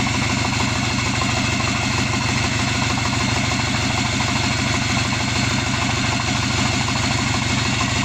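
Subaru EJ255 2.5-litre turbocharged flat-four engine idling steadily on its own outside the car, with an even, regular pulse and no change in speed.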